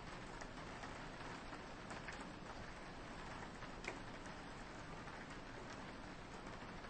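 Steady soft rain with scattered drops tapping on a window, one sharper drop about four seconds in.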